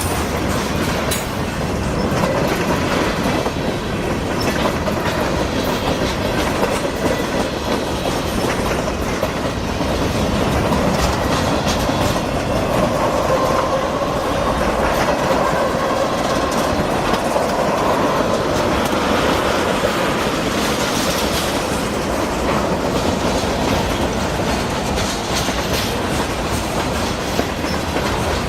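CSX freight train cars rolling steadily past, wheels clicking over the rail joints.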